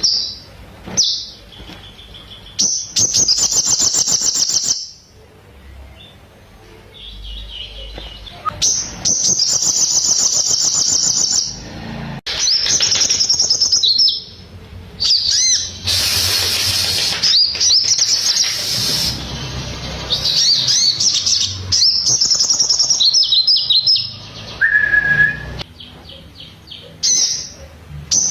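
Crimson sunbird (sogon) singing in repeated bursts of rapid, high trills a few seconds long, separated by short pauses. The song carries phrases learned from the bar-winged prinia (ciblek).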